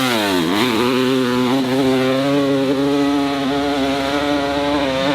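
Dirt bike engine at full throttle on a hill climb. Its pitch dips and recovers in the first second, then it holds a steady, high-revving note.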